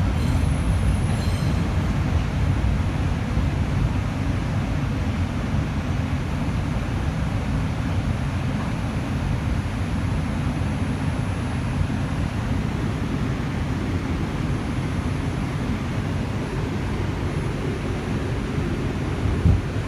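On-board running noise of an R142 subway car at speed: a steady low rumble of wheels on rail. A single short thump comes near the end.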